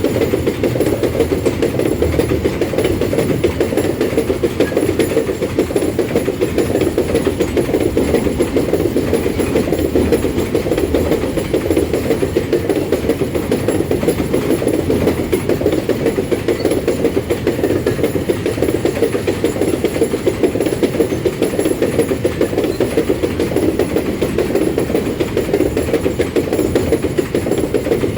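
Empty iron-ore freight train running past, a steady, unbroken noise of its wheels and wagons on the rails.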